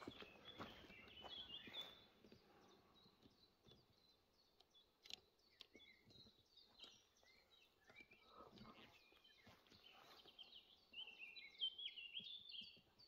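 Near silence with faint songbirds chirping: quick phrases of high notes, clearest about a second in and again over the last couple of seconds, with a few soft scuffs of footsteps.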